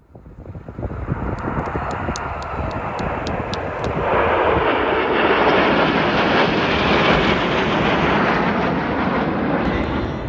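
Jet engines of Alpha Jet trainers flying past in formation: a rushing engine noise that fades in, swells to its loudest midway and stays loud, with a pitch that falls a few seconds in.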